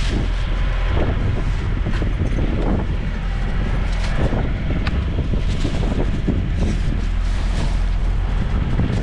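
Strong wind buffeting the microphone: a dense, steady low rumble from gusts the walker puts at about 30 to 35 miles an hour.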